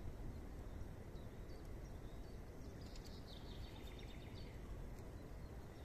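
Faint outdoor ambience: a steady low rumble with a small bird twittering for about a second and a half near the middle.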